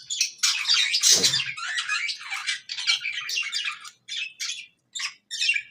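Budgerigar chattering: a rapid run of short, scratchy chirps and squawks that thins into separate short calls with pauses between them in the second half.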